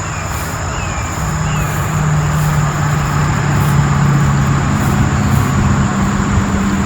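A motor engine running steadily under a rushing noise, its low hum climbing a little in pitch from about a second in.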